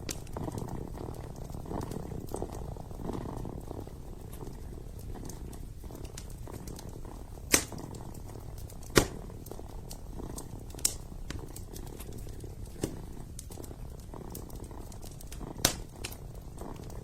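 Kitten purring steadily in a low, continuous rumble, with five sharp pops from a wood fire in a fireplace spread through the second half.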